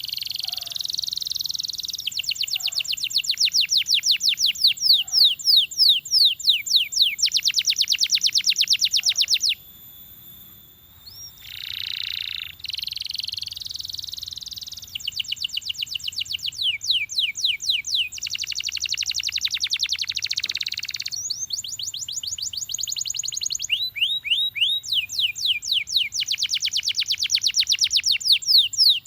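Belgian canary singing: long trilled phrases of fast repeated notes, each tour at its own speed and pitch, one after another, with a short break about ten seconds in.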